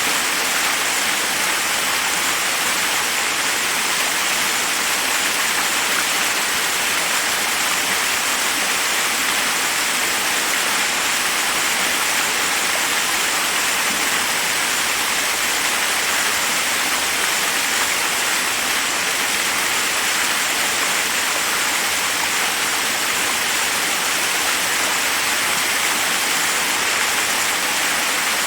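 Forest waterfall: water rushing and splashing over rocks in a steady, unbroken hiss.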